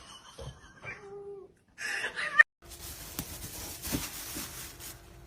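A cat meowing: a few short meows, the loudest and highest about two seconds in, ending with a sharp click. After that a steady hum and hiss carry on.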